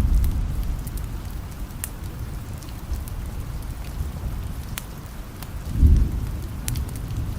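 Steady rain with distant thunder: a low rumble dying away at the start and another short rumble about six seconds in. Scattered sharp ticks sound over the rain.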